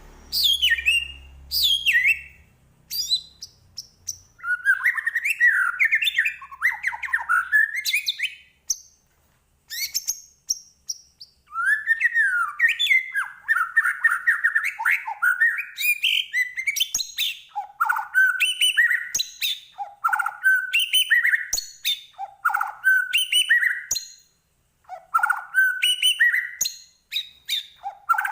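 White-rumped shama singing in full voice: a long run of loud, varied whistled phrases with quick rising and falling notes, broken by short pauses.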